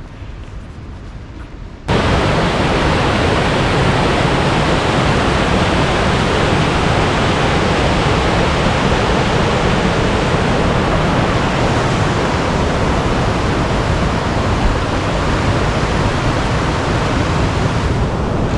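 Waterfall rushing: a loud, steady roar of falling water that cuts in abruptly about two seconds in, after a quieter stretch of outdoor air noise.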